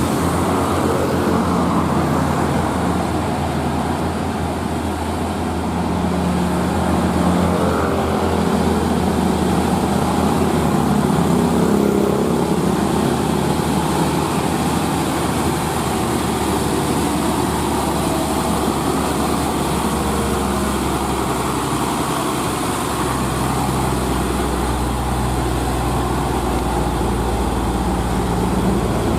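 Heavy diesel truck engine running under load on a steep climb, its pitch shifting, with a deeper drone coming in about three-quarters of the way through.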